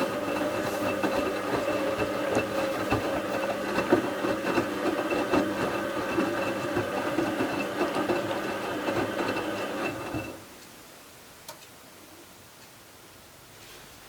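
Bauknecht WA 7778 W washing machine tumbling a load of towels, its drum motor running with a steady whine and scattered clicks and knocks. About ten seconds in the motor stops suddenly for the pause before the drum turns the other way. The owner says the drum bearing was already damaged at this point, though not yet badly.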